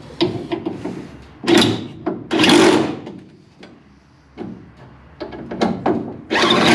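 Clicks and knocks of hand tools and metal car parts being handled, with louder rasping bursts about two seconds in and again near the end.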